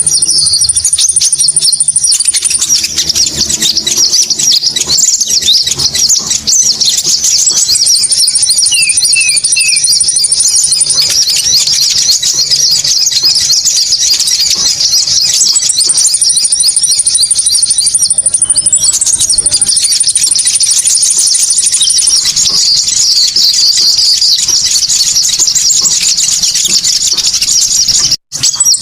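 Recorded Konin birdsong played as a lure: a dense, continuous chatter of rapid high-pitched chirps. A higher, thin trill comes in and out in stretches of a few seconds, and there is a brief break just before the end.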